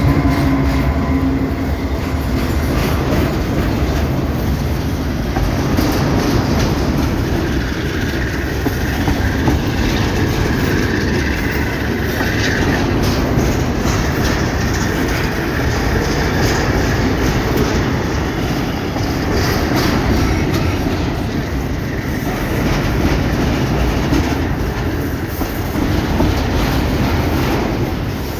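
Train cars rolling steadily over a railway bridge, wheels clacking continuously over the rail joints, with a brief high wheel squeal near the middle.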